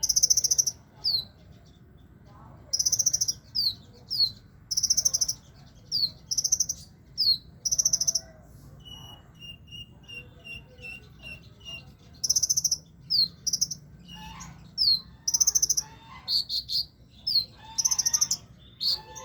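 A kolibri ninja sunbird singing vigorously. High buzzy bursts alternate with quick down-slurred whistles, over and over. Around the middle there is a quieter run of short, even chirps at about two a second.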